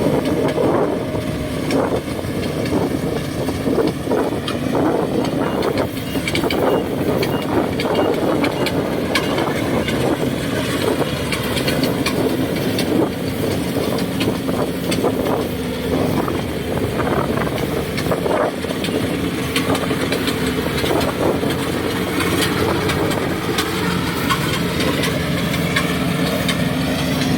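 Kubota DC70G rice combine harvester working, its diesel engine running steadily under load with frequent rattles and clicks from the machinery.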